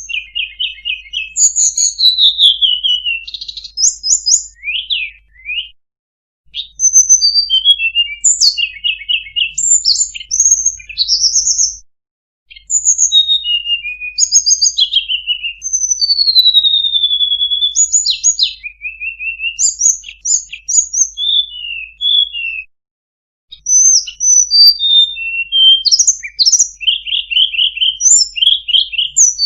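Tledekan gunung singing a fast, varied song of high whistled notes, sliding glides and short trills, broken by a few short pauses.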